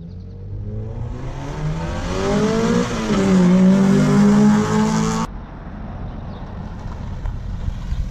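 Twin-engine, twin-turbo Mazda MX3 accelerating hard, its engine pitch climbing, dipping briefly at a gear change about three seconds in, then climbing again. The engine sound cuts off abruptly about five seconds in, leaving a quieter low rumble.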